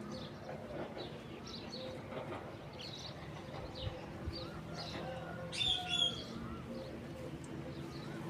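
Small birds chirping: a steady run of short, high chirps, with a louder, harsher call about five and a half seconds in.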